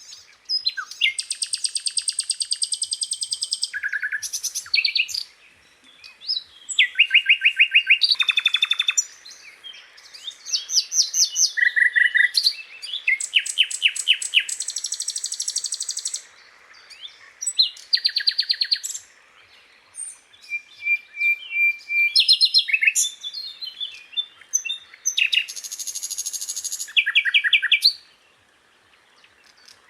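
Sikatan londo flycatcher singing: a run of fast, high trills of rapidly repeated notes, phrase after phrase with short breaks, at varying pitches, stopping shortly before the end.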